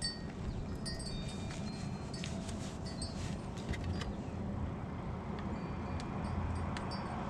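Faint, scattered high ringing tones like wind chimes, with a few light clicks, over a steady low hum.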